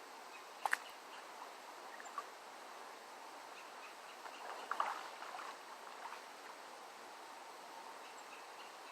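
Steady rush of flowing creek water, with one sharp click under a second in and a brief rustle about five seconds in.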